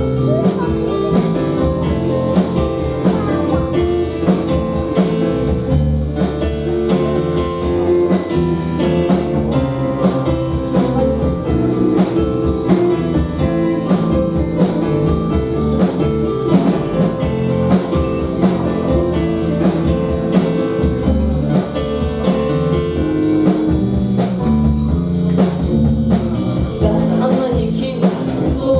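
Live band playing an instrumental passage of a song, with guitar over a steady drum-kit beat.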